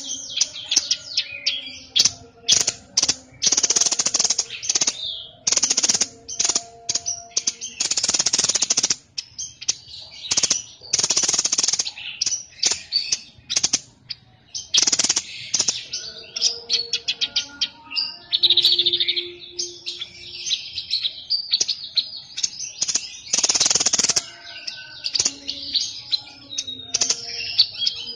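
A songbird known to Indonesian bird keepers as the 'sniper' bird singing non-stop: rapid chirps and trills mixed with several harsh rattling phrases about a second long.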